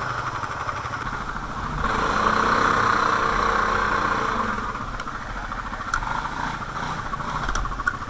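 ATV engine running at idle, growing louder for a couple of seconds about two seconds in, then settling back, with a few light clicks near the end.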